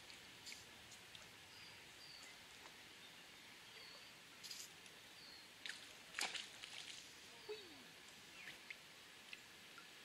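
Quiet outdoor ambience: a faint steady hiss with short, high bird chirps repeating every second or so, a few soft clicks, and one sharper click about six seconds in.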